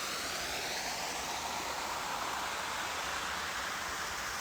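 Steady rushing noise, even and unbroken, with a few faint sliding tones fading out in the first second.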